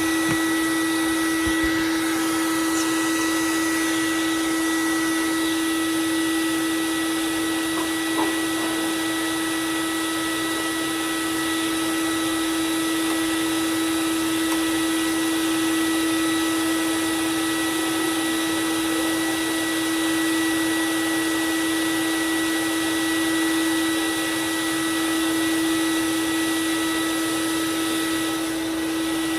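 A belt sander running steadily with a constant motor whine over a hiss of the moving belt, as a knife edge is sharpened on it.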